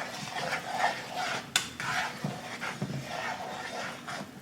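A utensil stirring and scraping through pepper steak simmering in gravy in a pan, with a sharp clink of metal on the pan about a second and a half in.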